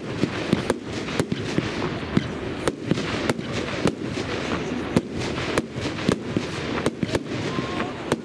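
Fireworks display: an irregular run of sharp bangs and cracks, about two a second, over a dense continuous noisy background.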